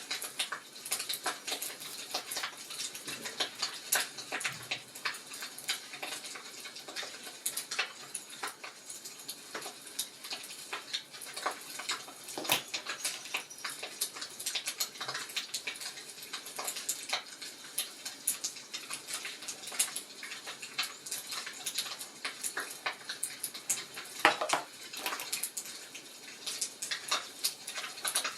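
Wood fire crackling, with dense, irregular small pops and snaps. A couple of louder snaps come about midway and near the end.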